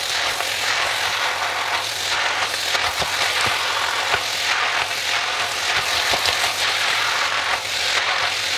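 Fried noodles sizzling steadily in a hot nonstick wok as they are stirred and tossed with a spatula and fork, with irregular light clicks and scrapes of the utensils against the pan.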